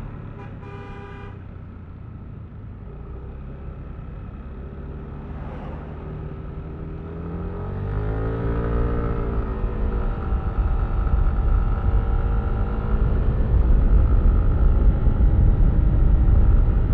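A vehicle horn toots once, briefly, near the start. Then the Yamaha Aerox V3's single-cylinder 155 cc scooter engine rises in pitch as the scooter pulls away and settles, with wind and road rumble growing louder as speed builds.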